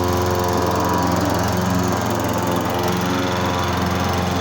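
Walk-behind gasoline lawn mower engine running at a steady speed while its self-propel drive pulls the mower forward.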